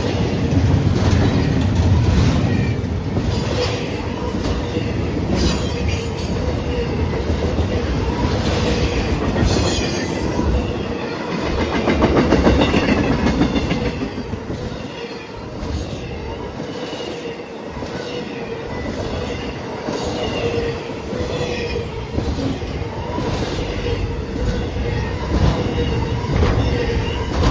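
Intermodal freight train rolling past, its wheels clicking over rail joints with a steady wheel squeal.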